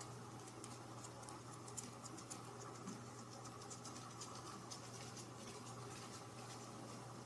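Faint, light scratching and ticking: many small, irregular clicks over a steady low hum.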